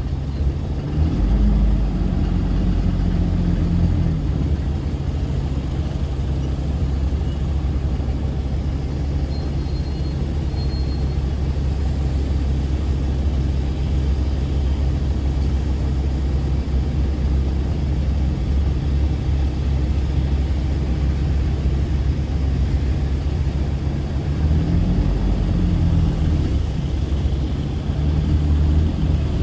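A car's engine and low road rumble in slow stop-and-go traffic, heard as a steady low hum. The engine note rises briefly about a second in and again near the end as the car pulls forward.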